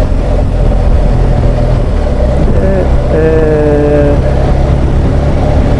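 BMW R1200GS Adventure's boxer-twin engine running under way, with a steady rush of riding wind on the helmet microphone. A short held tone, likely the rider's voice, sounds about three seconds in.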